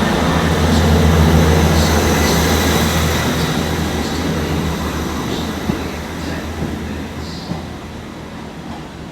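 A train's engine drone, loudest about a second in and then fading steadily as the train moves away, with faint wheel squeaks and a couple of sharp clicks from the wheels on the track.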